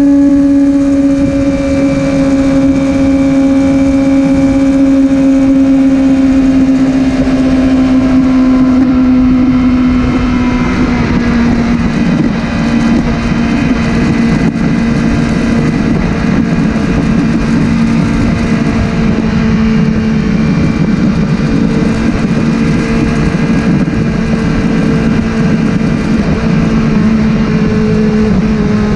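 Motorcycle engine running at a steady cruise with wind rushing over the microphone; its pitch eases lower and drops a step about ten seconds in.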